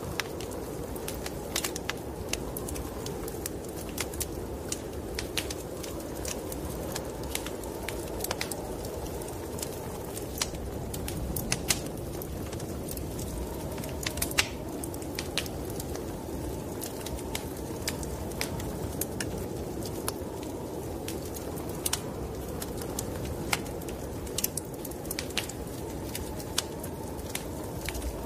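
Wood fire crackling with frequent sharp pops over a steady, dull rush of snowstorm wind.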